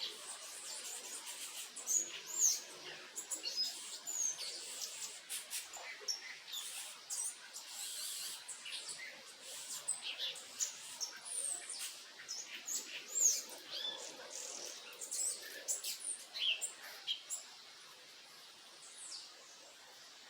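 Backyard birds chirping and calling: many short, quick rising and falling notes over a steady faint hiss, dying away a few seconds before the end.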